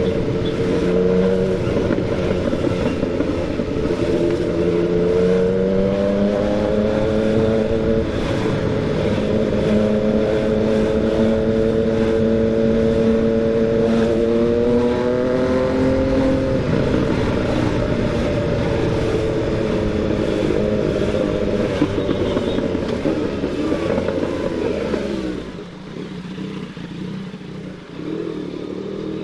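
Yamaha MT-09's three-cylinder engine pulling at low, easy revs, its pitch rising slowly twice. The revs drop about halfway through, and the engine falls much quieter near the end as the throttle is rolled off.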